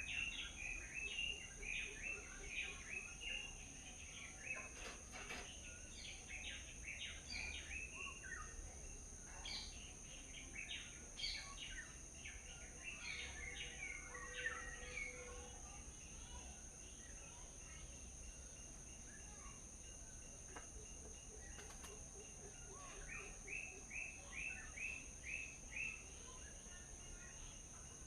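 Small birds chirping in quick runs of short notes, in three bouts: at the start, through the middle and again near the end. A steady high-pitched hum runs underneath.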